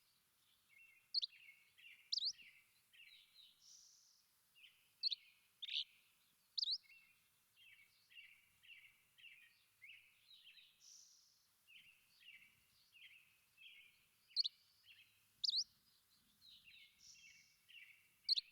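Songbirds chirping: a steady run of short chirps about twice a second, broken every few seconds by louder, sharp rising whistled notes.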